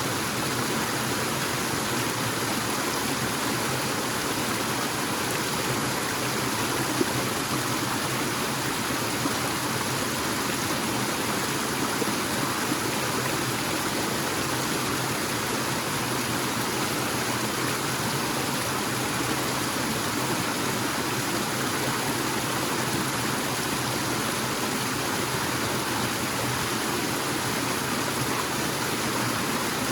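Waterfall in a forest, water pouring and splashing in a steady rush with no change.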